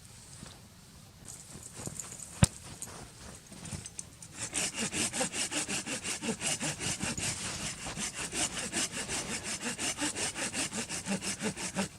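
Silky folding pruning saw cutting dead wood: a sharp knock about two seconds in, a few tentative scrapes, then steady rapid back-and-forth strokes, several a second, from about four seconds on.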